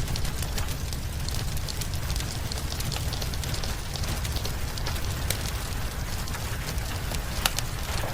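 Rain mixed with a crackling wood fire: an even wash of rain over a steady low rumble, with frequent sharp crackles and pops scattered throughout.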